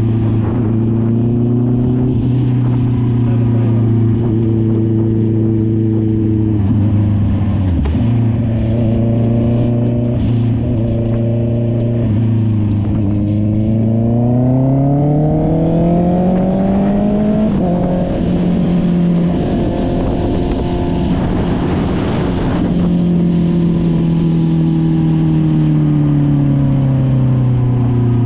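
Honda CB650R's inline-four engine running through an SC Project aftermarket exhaust while the bike is ridden. It holds a steady note, breaks briefly about eight seconds in, then revs up with a rising pitch before stepping down about two-thirds through, and winds down with a falling pitch near the end.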